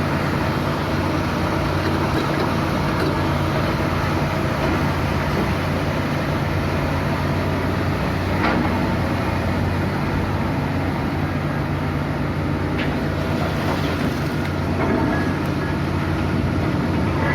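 Heavy diesel engine of an excavator running steadily with a low hum. A few short clanks sound about two-thirds of the way through.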